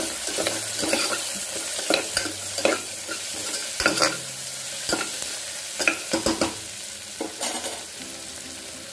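Sliced onions, green chillies and curry leaves sizzling in oil in an aluminium pressure cooker while a spoon stirs them, scraping and knocking against the pot at irregular moments. The onions are being sautéed until translucent.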